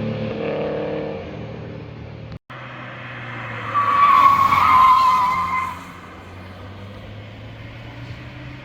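A car's engine fading away over the first two seconds. After a brief dropout, tyres squeal loudly for about two seconds as a car slides through a corner. A low, distant engine hum follows.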